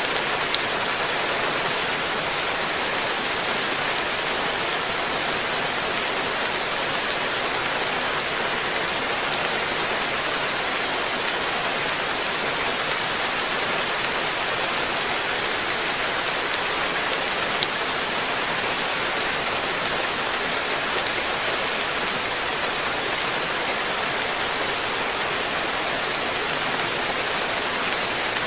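Steady rain falling on a garden koi pond and its surroundings: an even hiss, with scattered sharper ticks of single drops landing close by.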